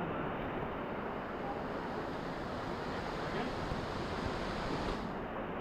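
Steady rushing noise of a waterfall and its moving water, even and unbroken.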